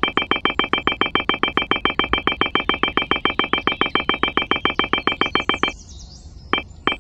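A rapid electronic trill, a steady two-tone beep pulsing about ten times a second like a phone ringer. It cuts off sharply about six seconds in and is followed by two single beeps.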